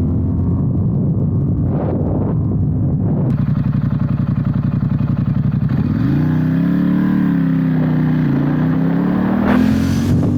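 Ducati XDiavel's 1262 cc Testastretta V-twin running under way. The engine note holds steady at first, then about six seconds in it rises and falls as the bike accelerates and eases off.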